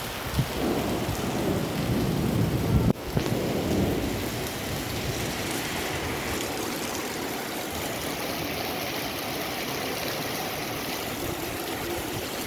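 Heavy rain pouring down steadily. For the first three seconds a louder low rumble sits under the rain, cutting off suddenly about three seconds in.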